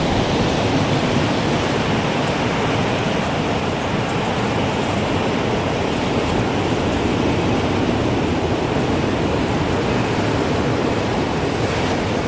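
Strong wind blowing in a steady, even rush, with no wind chime tones standing out.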